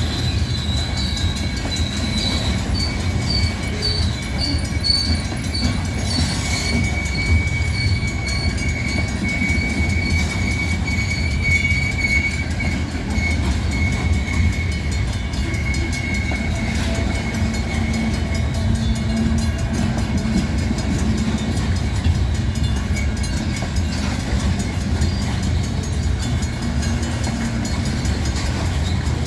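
Train cars rolling past with a steady low rumble. A high, thin wheel squeal is held from about seven seconds in until about eighteen.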